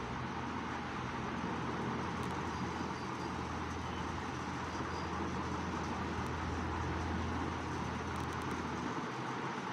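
Steady, even background noise like distant road traffic, with a low hum and a few faint high chirps.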